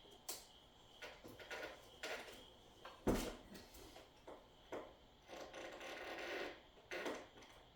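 Packaging and contents being handled: irregular rustling and rubbing with light clicks and knocks, the sharpest knock about three seconds in.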